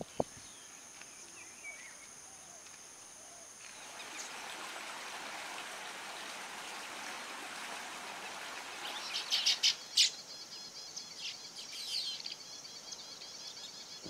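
Bird chirps over a steady background hiss of outdoor ambience. A cluster of sharp chirps comes a little past the middle, followed by a repeating high trill.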